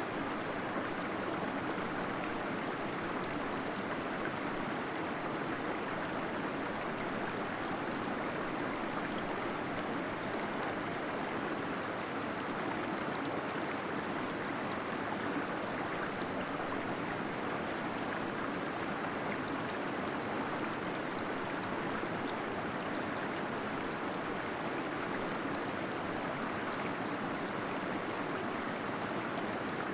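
Small waterfall splashing steadily into a pool, a continuous even rush of water with no breaks.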